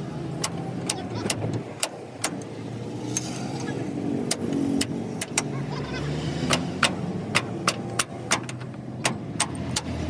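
Sharp hammer blows on metal, often about two a second with short pauses, over the steady hum of an engine running.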